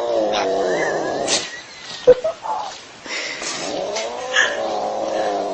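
A cat caterwauling in long, drawn-out yowls: one yowl falls away about a second and a half in, and another rises and holds from about three seconds on. A sharp click comes about two seconds in.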